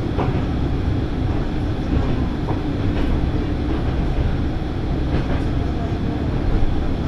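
Diesel railcar running at speed, heard from inside the car: a steady low rumble of engine and wheels on the rails, with a few faint clicks as the wheels cross rail joints.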